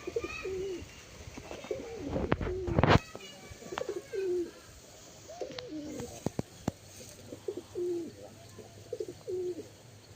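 Domestic pigeons cooing, short low coos repeated several times. A few sharp knocks come between two and three seconds in, the loudest about three seconds in.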